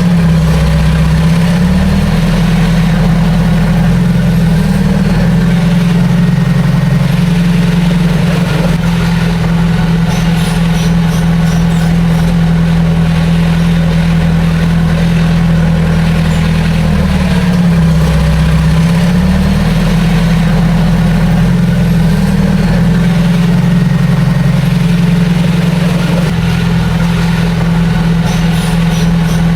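Heavy earthmoving machine's diesel engine running steadily and loudly. Its pitch dips and recovers twice, about a second in and again around eighteen seconds in.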